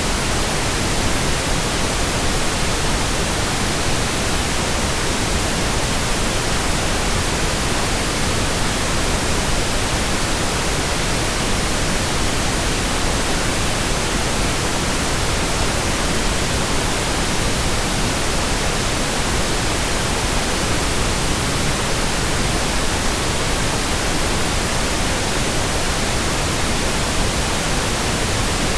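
Steady, unchanging white noise for a baby's sleep: an even hiss spread across all frequencies, with no rhythm or breaks.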